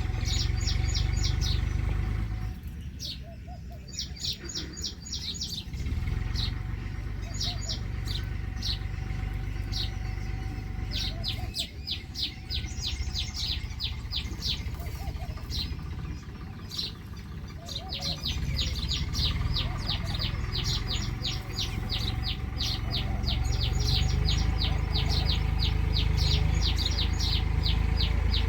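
Small birds chirping in rapid runs of short, high-pitched notes, thickening into a near-continuous chatter over the last ten seconds, over a steady low rumble.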